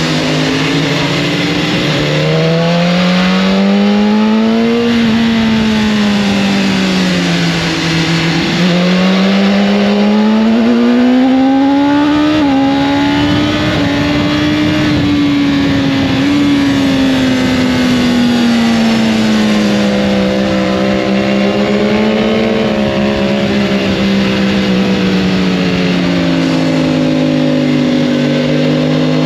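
Motorcycle engine under way, its pitch rising and falling smoothly every few seconds as the throttle is opened and closed, with a steady rush of noise behind it.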